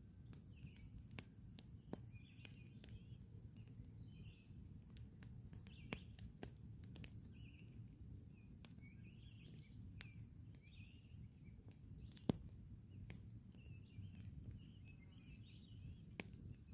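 Wood campfire crackling with scattered sharp pops, the loudest about twelve seconds in, over a low steady rumble, while small birds chirp throughout.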